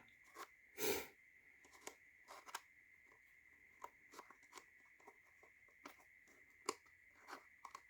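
Wooden tiles of a laser-cut slide puzzle being slid and nudged, giving faint scattered scrapes and light clicks; the longest is a short scrape about a second in.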